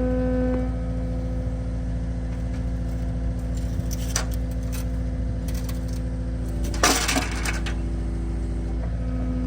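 An engine running steadily at a constant speed, with a few sharp knocks about four seconds in and a short burst of clanking clatter about seven seconds in.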